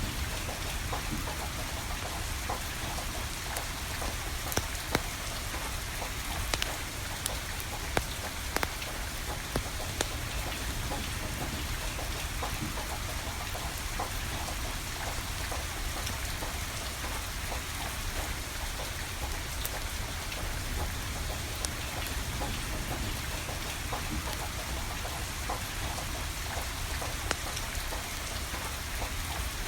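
Steady rainfall hissing, with a wood fire crackling and a handful of sharp pops standing out, several between about four and ten seconds in.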